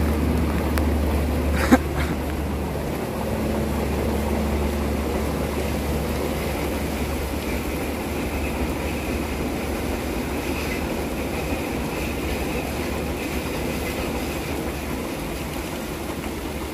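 Lodaya passenger train's carriages rolling round a curve, a steady rumble of wheels on rail that slowly eases off, with one sharp click about two seconds in.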